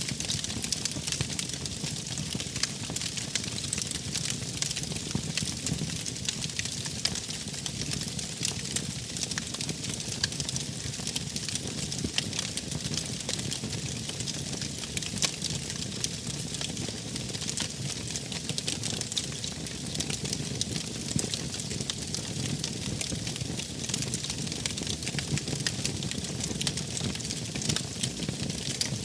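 Wood fire burning steadily, with a dense run of small crackles and pops over a low, even rumble of the flames.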